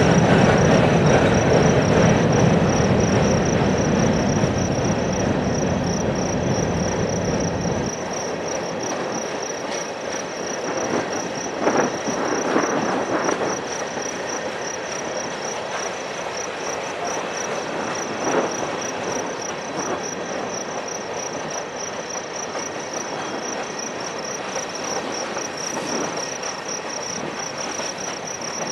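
Freight train hopper cars rolling past, a low rumble that drops away about a quarter of the way in, leaving a quieter rolling noise with a few brief louder knocks from the cars. Insects trill steadily in a high, fast-pulsing chirr over it.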